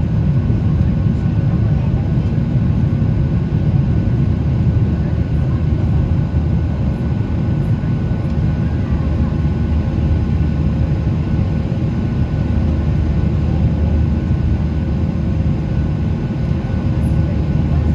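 Boeing 737 jet engines and airflow: a steady low rumble with faint, unchanging tones above it, holding the same level throughout.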